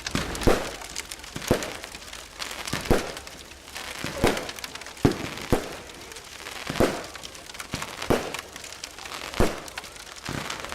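A series of sharp cracks, irregularly spaced, about one every second.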